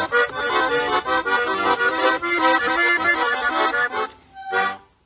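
Accordion playing a quick instrumental tune of many short notes, which breaks off about four seconds in and closes with a final chord.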